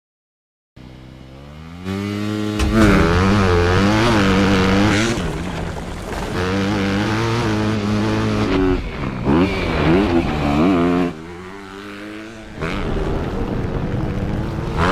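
Motocross bike engine revving hard on a track, its pitch climbing and dropping again and again as it accelerates and shifts. It starts from silence about a second in and eases off briefly near the end before picking up again.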